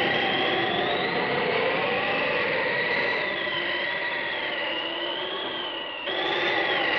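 Spooky sound effect from a 1974 Halloween sound-effects record: a steady hissing rush with a high held tone and eerie whistling tones that waver up and down. The sound shifts abruptly about six seconds in.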